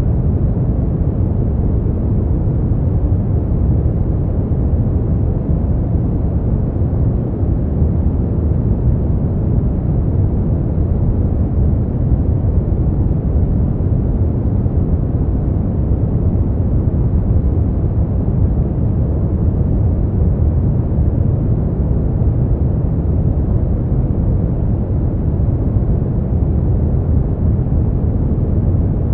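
Steady brown noise: an even, deep hiss with most of its energy in the low end, fading out toward the highs and unchanging throughout.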